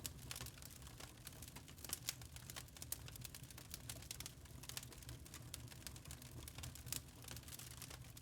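Wood fire in a fireplace crackling, with irregular sharp pops and snaps several times a second over a low, steady rumble.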